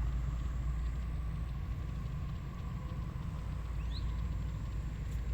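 Outdoor field ambience: steady low wind rumble on the microphone under a faint constant hum. A short rising bird chirp comes about four seconds in.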